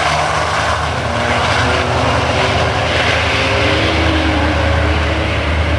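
Modified 5.9 Cummins diesel engine of a Dodge Ram race truck running steadily, a loud low drone.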